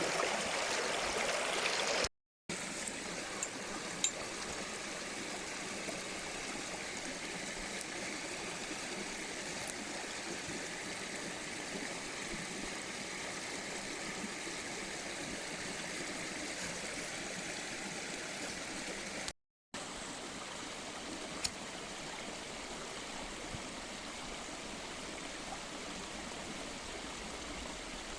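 Mountain stream flowing: a steady rush of running water. It cuts out completely twice for a moment, about two seconds in and again about two-thirds of the way through, and a couple of faint sharp clicks sit on top of it.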